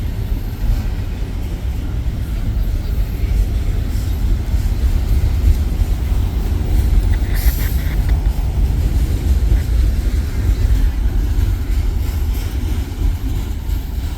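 A train rolling past, a steady loud low rumble of its cars on the rails, with a brief higher-pitched sound about seven and a half seconds in.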